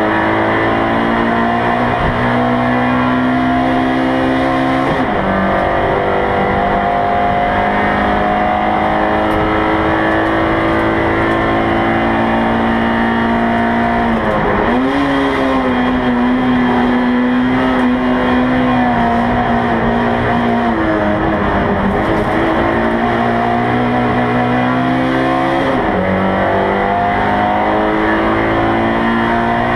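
Race car engine heard from inside the cabin, running hard at high revs. Its pitch dips briefly and climbs back a few times: about five seconds in, a longer dip midway, and twice more near the end.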